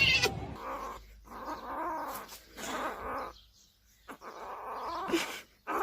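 A pet animal vocalising in about four drawn-out calls, with short pauses between them.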